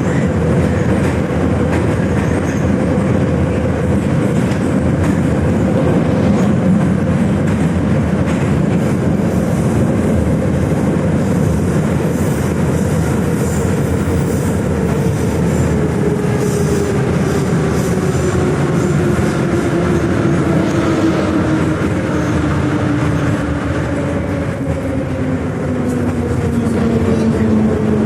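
81-717.5M "Nomernoy" metro train running through the tunnel, with loud, steady wheel and running noise. Its traction-motor whine falls slowly in pitch through the second half as the train slows on the approach to the station.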